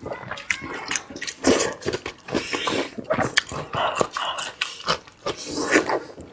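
Close-miked mukbang chewing and biting on sausage: irregular mouth smacks and sharp clicks, several a second.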